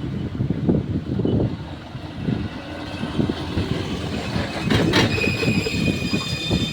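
Mitsubishi Canter dump truck running with an uneven low rumble. About five seconds in comes a short burst of noise, then a steady high-pitched squeal sets in.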